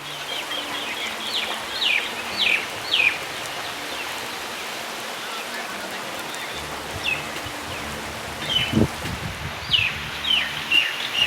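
Steady rain falling, with a bird giving short downward chirps in two runs, one early and one near the end. A single low thud comes about nine seconds in.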